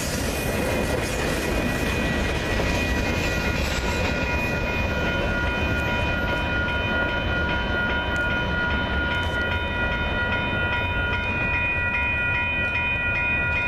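Freight train rolling through, a steady low rumble of wheels on rail with clickety-clack, while the grade-crossing warning bell rings throughout in a rapid pulsing ring. The wheel noise thins out in the second half as the cars move away.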